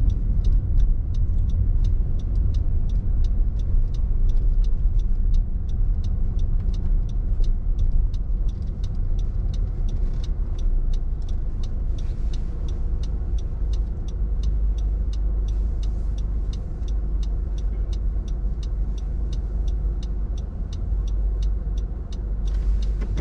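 Car driving on a snowy street, heard from inside the cabin: a steady low rumble of engine and road noise, with a fast, even ticking of about two or three clicks a second running through it.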